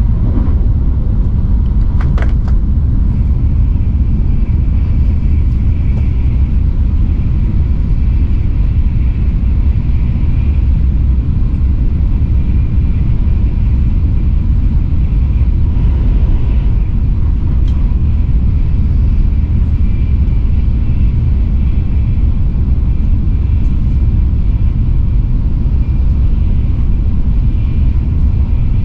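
Steady low rumble of a Shinkansen bullet train running, heard from inside the passenger cabin, with a faint high whine above it. A single sharp click about two seconds in.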